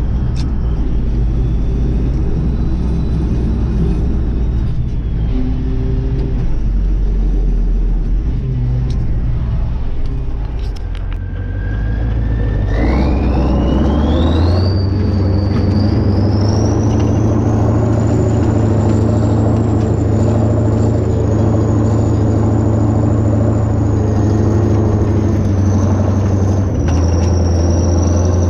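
Kirovets K-700A tractor's diesel engine running under load. About halfway through it revs up, with a rising whine that climbs and then holds high while the engine note grows louder.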